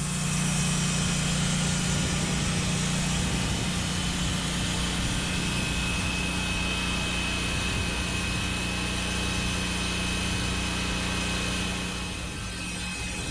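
A machine motor running steadily under power, with a low hum and a thin high whine that comes in about five seconds in; the sound eases off a little near the end.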